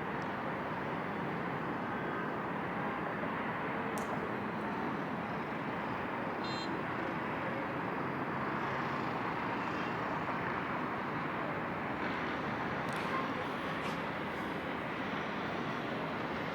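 Steady road traffic noise, an even wash of sound with a few faint clicks.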